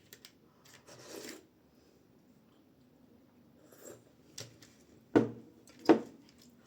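Eating sounds at a table: a soft rustle about a second in, then two sharp clinks of utensils against a dish near the end.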